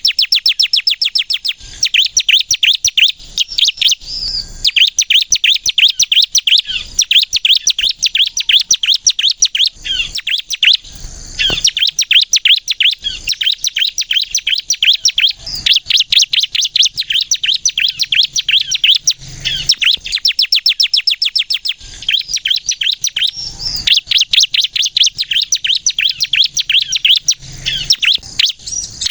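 Bar-winged prinia (ciblek kristal) singing in full voice: long runs of sharp, high notes repeated very fast, many to the second, broken by short pauses.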